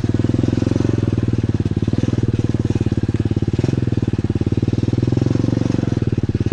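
Pit bike's single-cylinder engine running steadily under throttle, its fast firing pulses continuous.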